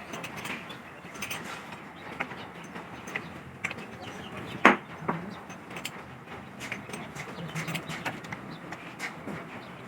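Scattered light metal clinks and knocks of tools and engine parts being handled during assembly, with one sharp, loud clink about halfway through.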